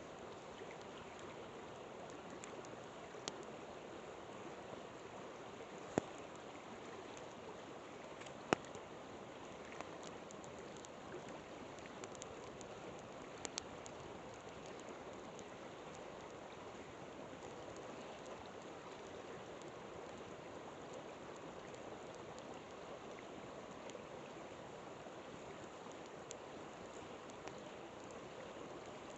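Steady rush of a flowing river, with a campfire crackling and popping now and then over it; the sharpest pops come about six and eight and a half seconds in.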